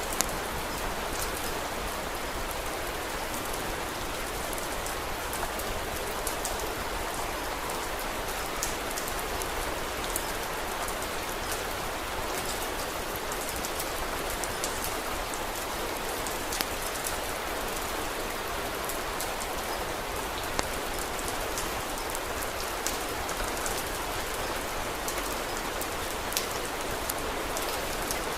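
Steady rain falling, a dense even patter, with occasional sharp clicks scattered through it: the crackle of a wood fire.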